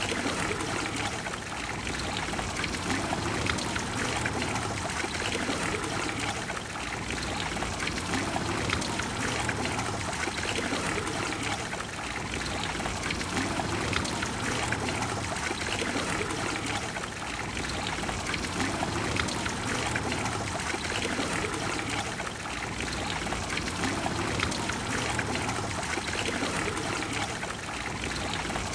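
Water of the Trevi Fountain flowing and splashing steadily into its basin, an even rushing with no breaks.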